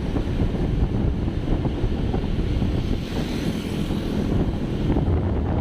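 Wind buffeting the microphone while moving along a street, with a steady low rumble of vehicle and road noise beneath.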